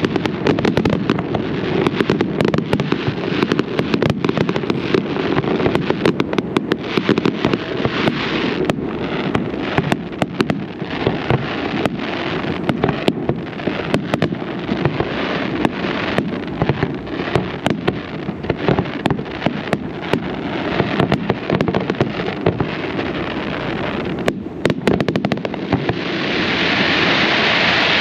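Aerial fireworks going off in a dense, unbroken barrage: rapid overlapping bangs and crackles over a constant low rumble. A broad hiss builds up near the end.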